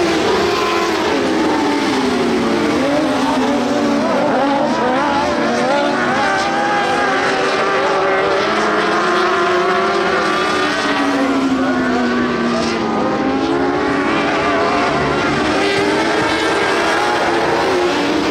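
A pack of dwarf race cars running at speed. Several high-revving motorcycle engines overlap, their pitches repeatedly rising and falling as the cars accelerate and back off.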